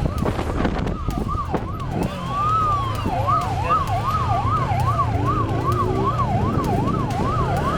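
Police siren wailing in quick up-and-down sweeps, about two a second, with one slower sweep just before the fast ones settle in, over a steady low rumble of vehicle engine and road noise.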